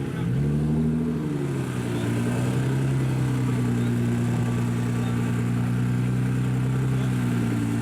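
Sports car engine given a short rev that falls back to a steady idle about three seconds in.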